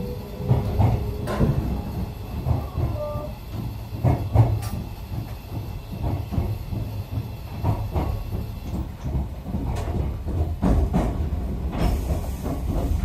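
Echizen Railway train running along the track, heard inside the passenger car: a steady low rumble of wheels on rail with irregular knocks and clicks from rail joints.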